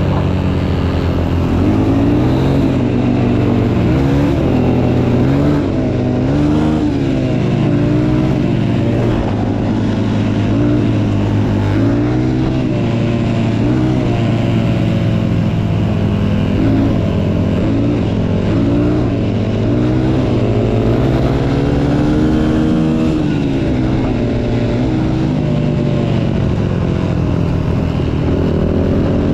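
Motocross bike engine being ridden, its pitch rising and falling over and over as the throttle is opened and closed.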